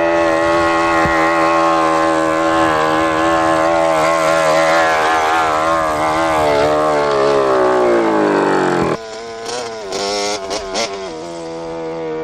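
Motorbike engine running loud at steady high revs, then its note falls away over a few seconds. About nine seconds in it drops much quieter, followed by a few short blips of the throttle.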